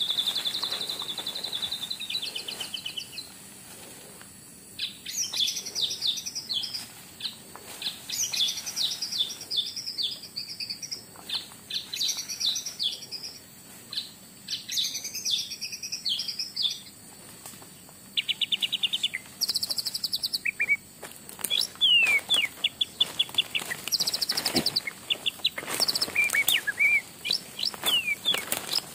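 Forest birds chirping and trilling in short, repeated high phrases, after a steady high whine in the first couple of seconds. A few sharp clicks come near the end.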